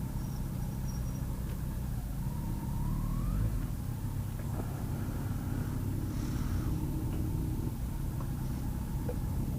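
Kawasaki GTR1400's inline-four engine running at low revs with a steady low hum, as the bike moves slowly or idles. A short rising whine sounds about two seconds in.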